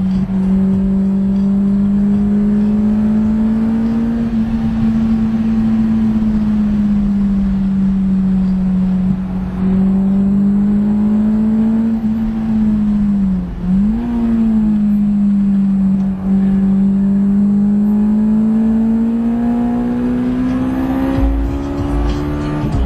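Honda S2000's four-cylinder engine heard from inside the cabin, held at high revs under hard driving. Its pitch holds steady and rises slowly, with two brief dips in the second half where the revs drop and pick up again.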